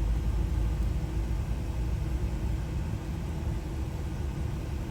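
A steady low background rumble with no distinct clicks or knocks.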